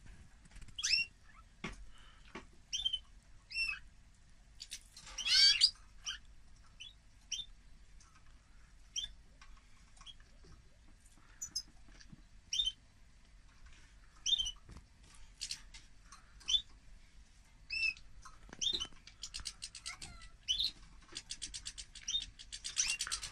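Caged finches, a European goldfinch paired with a canary, giving scattered short chirps and calls. There is a louder burst of calls about five seconds in and quick runs of trilled notes near the end.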